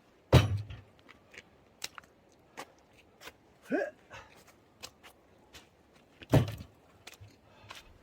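Firewood logs being loaded onto a truck: two heavy thuds about six seconds apart, with lighter knocks and clatter of wood between and a short rising squeak near the middle.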